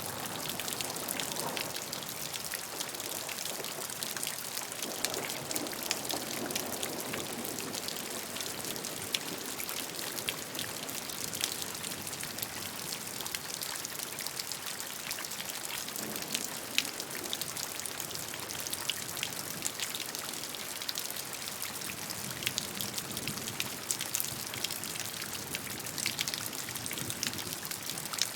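Steady gentle rain, a constant hiss with many individual drops ticking on a surface.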